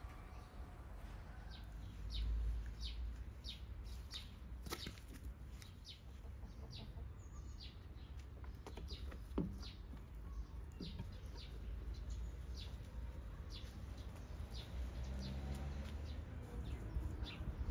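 A bird chirping over and over: short, high chirps that slide downward, about two a second, over a low rumble.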